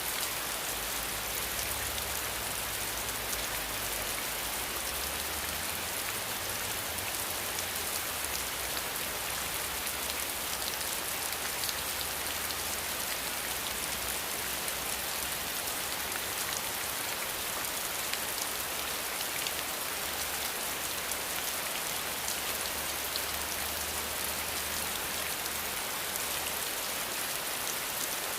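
Steady rain falling: an even hiss with many individual drops ticking close by, unchanging throughout.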